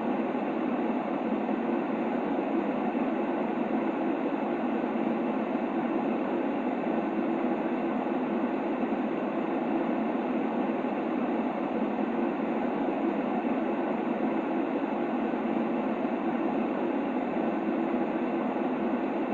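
Steady sleep noise for a baby: an unchanging rushing hiss weighted toward the low-middle range, like the rumble inside a train carriage, with no rhythm or breaks.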